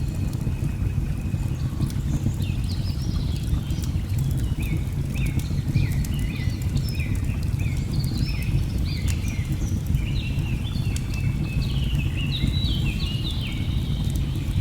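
Wood fire crackling with frequent sharp pops over a steady low rush of falling water, while birds sing in quick, repeated chirping notes from about two seconds in.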